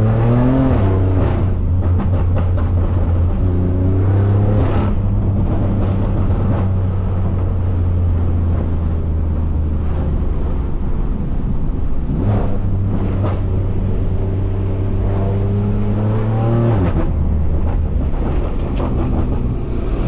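BMW S55 twin-turbo inline-six with catless downpipes and an open valved axle-back exhaust, pulling hard: the engine note climbs in pitch, drops back at each shift or lift, and makes one long climb from about twelve seconds in before falling off near the end. Short exhaust crackles and burbles come through on the lifts.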